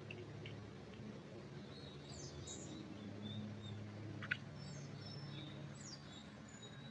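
Small birds chirping, with short high twitters and quick downward slurs, over a steady low hum. One sharp click comes a little past four seconds in.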